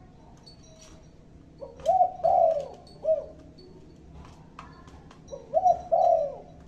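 Spotted dove (tekukur) cooing: two phrases of three or four arched coo notes, the first about a second and a half in and the second about five seconds in.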